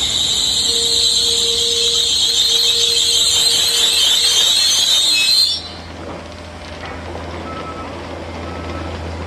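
Régiolis (Alstom Coradia Polyvalent) regional train braking to a stop, its brakes squealing high and loud until they cut off suddenly about five and a half seconds in. The halted train then gives a steady low hum, and a short door beep sounds twice near the end.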